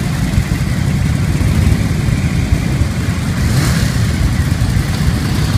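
Motorcycle engine running with a steady low rumble; a short rush of hiss comes about three and a half seconds in.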